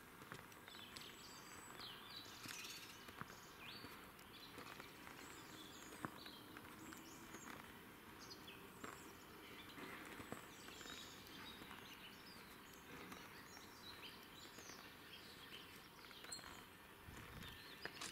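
Faint outdoor birdsong: several small birds chirping and calling in short, scattered phrases, with occasional soft steps on track ballast.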